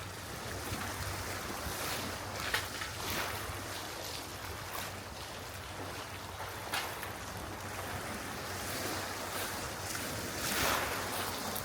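Sea waves washing at the shore with wind, broken by a few short rustles and knocks, the loudest near the end.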